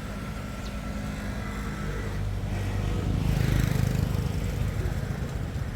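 A motor vehicle's engine running, growing louder to a peak midway and then easing off.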